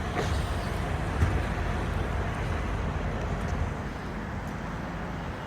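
Steady low traffic rumble and street noise, with a brief knock about a second in.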